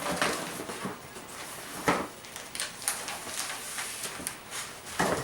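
Wrapping paper being handled, rustling and crinkling, with a couple of sharper knocks about two seconds in and near the end.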